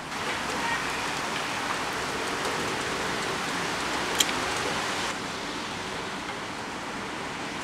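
Heavy rain pouring down, a steady even hiss that eases slightly after about five seconds, with one sharp click about four seconds in.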